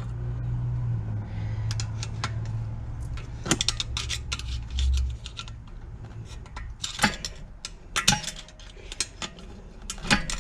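Hand tools and metal parts clinking and tapping against each other in scattered bursts as a Briggs & Stratton engine is taken apart, over a low steady hum that fades out partway through.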